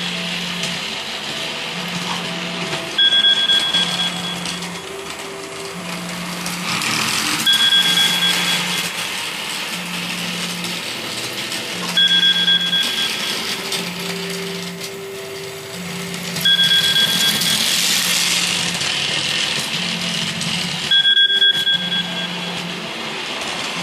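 Model railway running noise, a steady hiss and whirr, with a short electronic beep repeating about every four and a half seconds over a low hum that pulses on and off about every second and a half.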